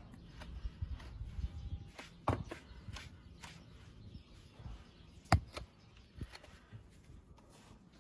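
Scattered sharp clicks and knocks over a low rumble, the loudest about five seconds in: hand tools working on a horse's hoof.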